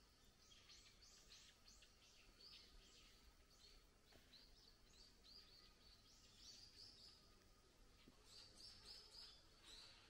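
Faint, high bird chirps, repeated quickly in irregular runs, over quiet forest ambience.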